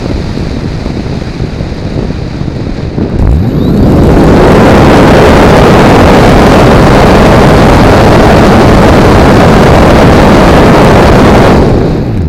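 Onboard-camera audio from a Multiplex Blizzard RC model plane in flight: airflow buffeting the microphone mixed with the electric drive and propeller. It jumps to a loud, steady rush about three seconds in and falls away just before the end.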